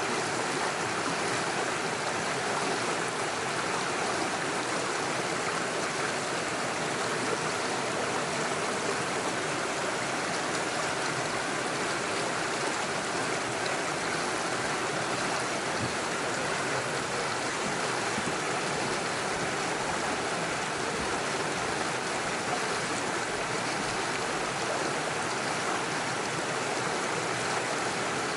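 Small mountain stream running steadily over stones and little waterfalls, a constant even rush of water.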